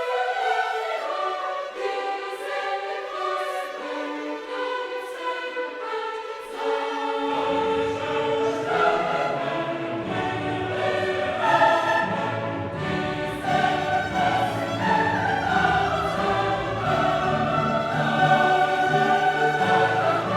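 Classical choral music: a choir singing with an orchestra, with deeper instruments coming in about seven seconds in.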